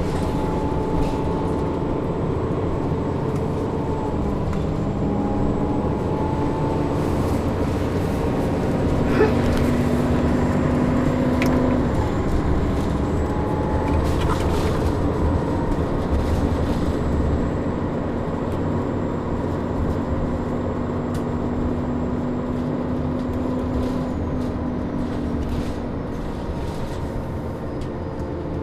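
Ride inside a 2002 Neoplan AN440 bus: its Cummins ISM diesel and Allison B500R automatic transmission running, with the engine cooling fan stuck on and running really loud. The steady tones shift in pitch as the bus speeds up and slows, with a few light rattles and clicks.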